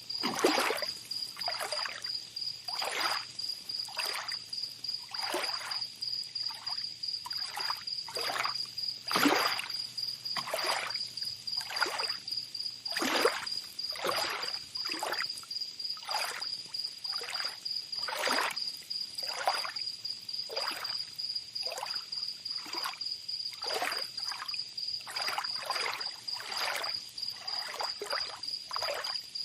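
Tropical beach ambience: small waves lapping and splashing at the shore every second or so, irregular in strength, over a steady high insect trill.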